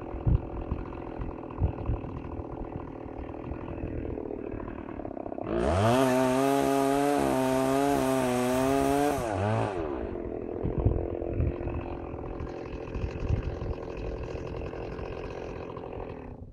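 Stihl 038 Magnum two-stroke chainsaw running at low revs, opened up to full throttle about five seconds in and held there for about four seconds, then dropping back to a lower speed. The engine cuts out abruptly near the end.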